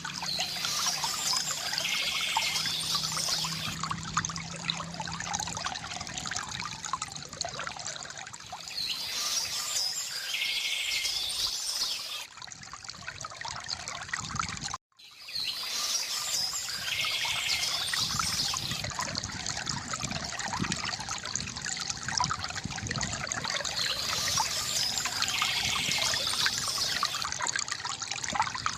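Stream flowing steadily with songbirds singing over it in short bursts every several seconds. The sound cuts out for an instant about halfway through, then the same stretch of stream and birdsong repeats.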